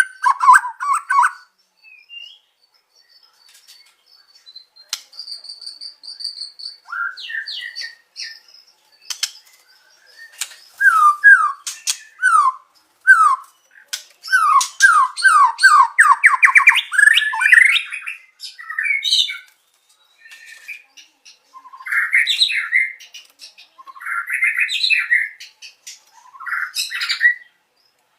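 White-rumped shama singing a varied, gapped song. It opens with scattered chips and a held high whistle, then a fast run of downslurred whistled notes that speeds up and climbs in pitch. Rougher, scratchy phrases with pauses follow near the end.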